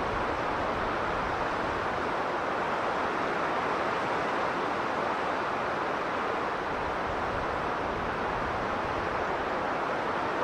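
Strong blizzard wind blowing with a steady, even rush.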